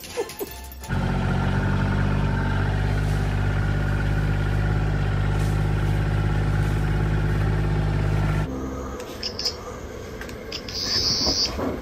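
A motor vehicle's engine idling steadily with a low, even hum. It starts about a second in and cuts off suddenly about seven and a half seconds later, after which only a few short, faint high sounds are heard.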